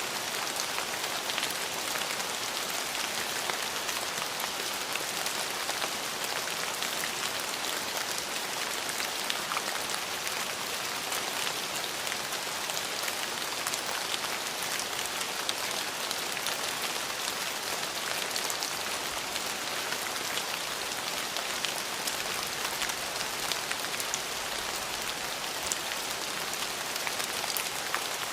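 Steady rain falling, an even hiss with many small drop ticks pattering on surfaces.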